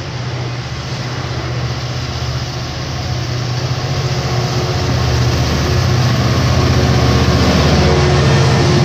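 Commuter train pulling out, its bilevel coaches rolling by with steady wheel-and-rail noise over a low diesel engine drone. The drone grows louder as the diesel locomotive pushing at the rear comes abreast near the end.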